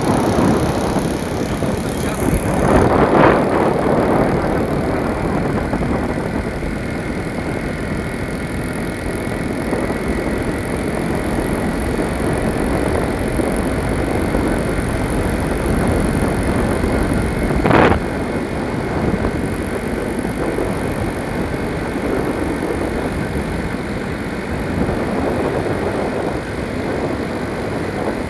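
Steady road and wind noise of a vehicle on the move. It swells louder about three seconds in, and there is a short, sharp whoosh about two-thirds of the way through.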